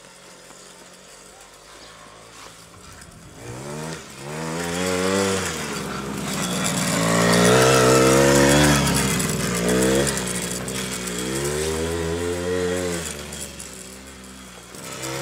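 Small 50cc two-stroke quad bike engine revving up and down over and over as it is ridden, loudest about halfway through, after a quieter first three seconds or so.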